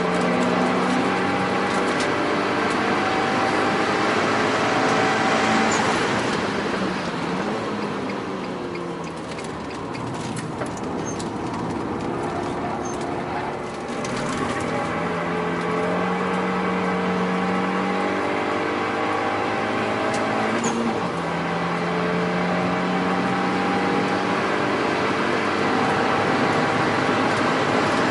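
Renault Mégane RS 225's turbocharged four-cylinder, running a Milltek downpipe and cat-back exhaust, pulling hard through the gears: the pitch climbs in each gear and drops at each upshift. For a few seconds in the middle it is off the throttle and quieter, with a few sharp clicks, before it pulls through the gears again.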